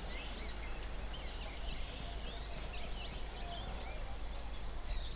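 Insects, likely crickets, calling in a pulsed high trill about two to three times a second over a steady high shrill drone, with many short high chirps scattered through it.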